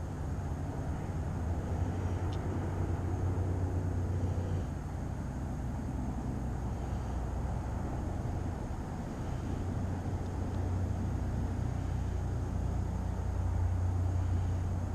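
Wind buffeting the microphone on a windy day: a low rumble that swells and eases, strongest about two to five seconds in and again near the end.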